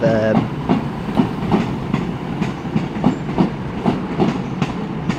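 Diesel multiple-unit train moving along the platform line. Its wheels click over the rail joints about three times a second over a steady low engine hum.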